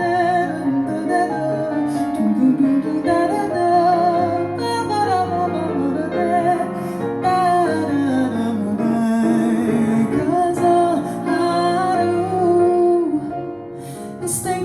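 Female jazz vocalist improvising a wordless scat line that slides and bends in pitch, over live acoustic piano chords.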